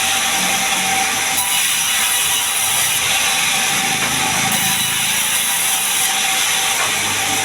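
Sawmill saw running and cutting through gmelina wood: a steady, loud, high-pitched hiss with a constant whine.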